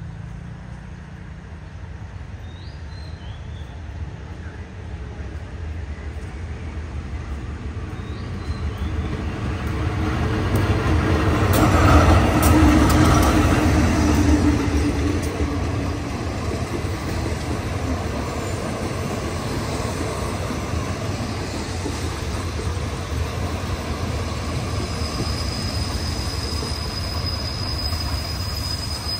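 Passenger train pulling into the station: the sound builds to its loudest about twelve seconds in as the locomotive passes, then the carriages roll by steadily. A high, steady wheel squeal starts near the end.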